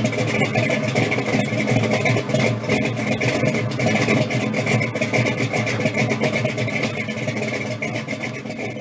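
Car engine running steadily at idle, with a rapid, rough pulse; it fades out near the end.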